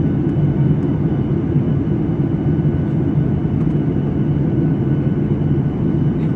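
Airliner cabin noise: the steady drone of jet engines and airflow, low and even, with a faint steady high whine over it.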